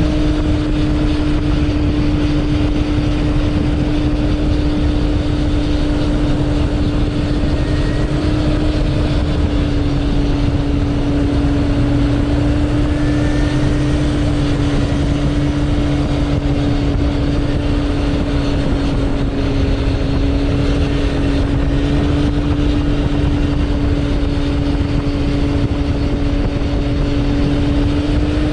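Suzuki Bandit 1200's inline-four engine running at a steady cruising speed, its note holding an almost constant pitch, over a steady rush of wind and road noise.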